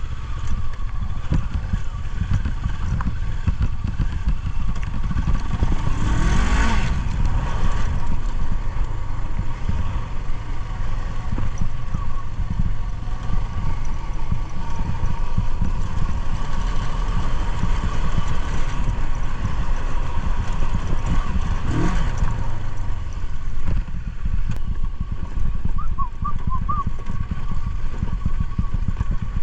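Motorcycle engine running steadily under way, with a low rumble. The engine note sweeps up and down about seven seconds in and again about twenty-two seconds in.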